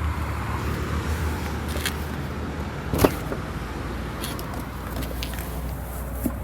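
Steady low mechanical hum, with one sharp click about three seconds in and a few fainter taps.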